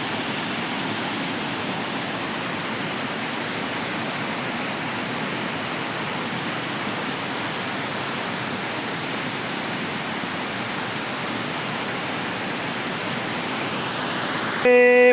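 Steady, unbroken rush of flowing water. A man's voice starts loudly just before the end.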